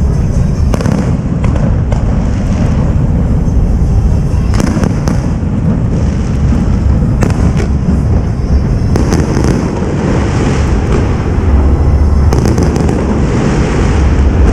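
Aerial fireworks display: a dense, continuous barrage of shells bursting, with deep booms and crackling, loudest deep booms about twelve seconds in.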